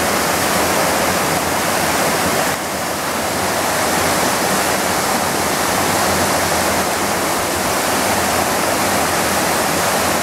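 Waterfall: a loud, steady rush of falling water, with a brief dip in level about two and a half seconds in.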